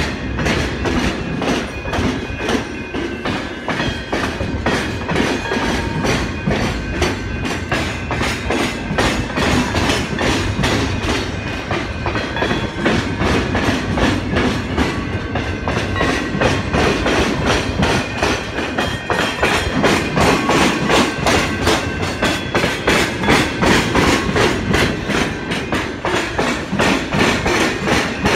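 Freight train wagons rolling past, their wheels clacking rhythmically over the rail joints a couple of times a second, the clacks growing sharper in the second half. A faint high wheel squeal sounds under the clatter.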